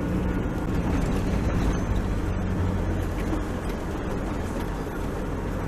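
Four-wheel-drive vehicle driving on a sand track: a steady low engine hum with the noise of the tyres.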